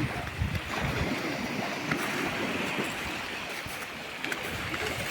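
Sea waves washing on the shore, a steady rush of surf, with wind rumbling on the microphone for about the first second.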